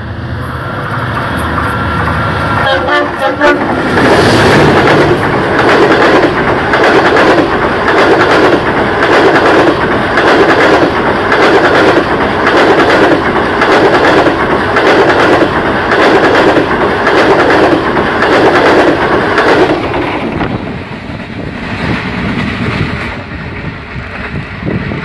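Passenger train behind a diesel locomotive passing close by. Its horn sounds for the first few seconds. Then the coaches clatter past loudly, with a rhythmic clickety-clack of wheels over rail joints, fading about 20 seconds in as the train moves away.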